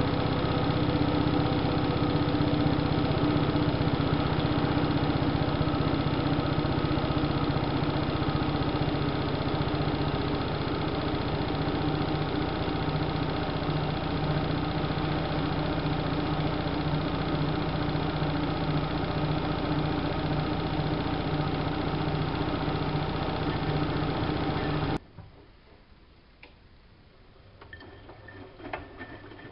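Siemens Siwamat washing machine running steadily with a motor whine and low hum, typical of the drum spinning. The sound cuts off abruptly near the end, leaving only a few faint clicks.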